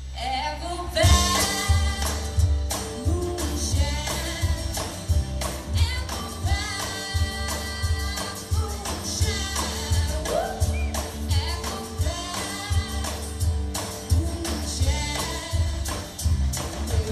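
Live folk-blues band playing with singing over a steady bass and drum beat; the music swells in about a second in.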